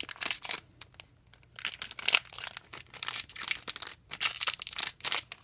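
Trading-card booster pack wrapper being torn open and crinkled by hand, in a run of short rustles with a brief lull about a second in.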